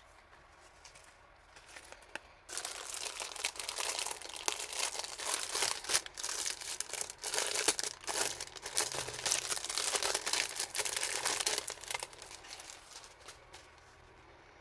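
Packaging being crinkled, rustled and torn open by hand: dense crackling from about two seconds in until near the end, then softer rustles.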